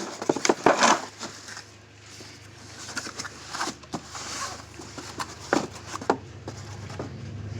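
Packing material rustling while items are handled out of a cardboard box, with scattered light clicks and knocks, the sharpest in the first second.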